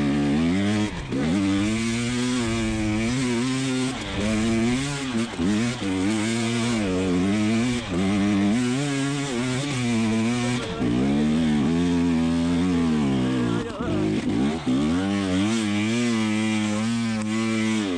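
2020 KTM 300 XC TPI two-stroke dirt bike engine revving hard on a hill climb. Its pitch rises and falls constantly with the throttle, with a few brief drops where the throttle is chopped.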